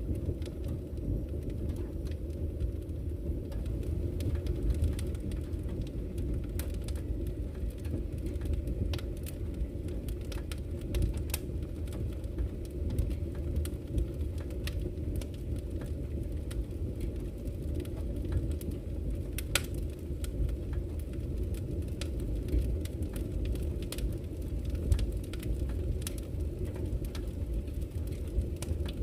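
Campfire crackling with frequent scattered sharp pops over the steady low rush of flowing river water.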